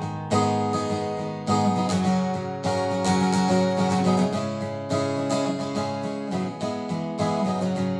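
Acoustic guitar strummed, playing chords at a steady pace as a song's introduction.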